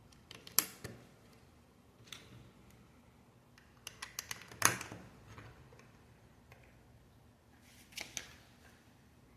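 Plastic Lego pieces being handled and snapped together: scattered sharp clicks, one about half a second in, a quick cluster around the middle, and another near the end.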